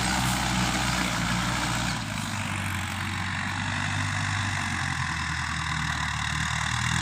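Tractor engine running steadily at low revs, easing slightly lower in level about two seconds in.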